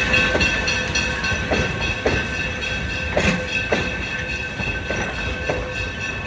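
Narrow gauge train cars rolling slowly, wheels clicking over rail joints at an uneven pace under a steady high-pitched ringing squeal.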